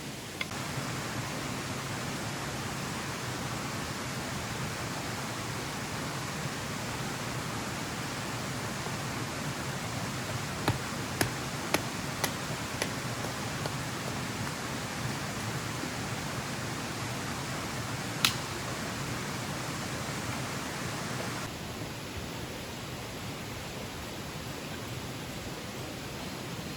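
Steady rushing water noise, with a cluster of sharp clicks around the middle and one louder click later. The rush drops a little and turns duller about twenty seconds in.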